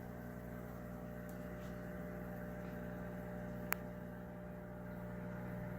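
Steady electrical hum of aquarium equipment, with one sharp click a little past halfway.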